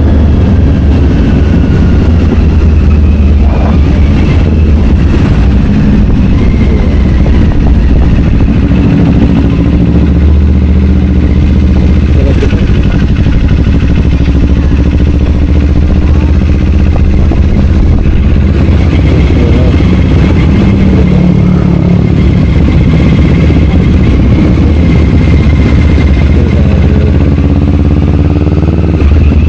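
Kawasaki Ninja 500 parallel-twin engine through an Akrapovic slip-on exhaust, running steadily while riding. The pitch rises and falls a little with the throttle over a loud, low exhaust rumble.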